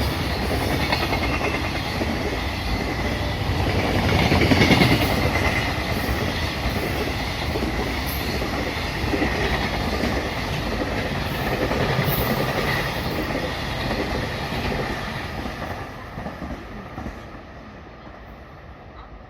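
A train running through the station, its wheels clattering over the rail joints with a faint high squeal, loudest about five seconds in and dying away over the last few seconds as it moves off.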